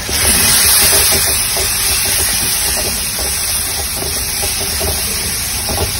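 Spiced onion-tomato masala sizzling in hot oil in an aluminium kadai as a spatula stirs it. The hiss swells about a third of a second in, is loudest for the next second or so, then settles to a steady sizzle.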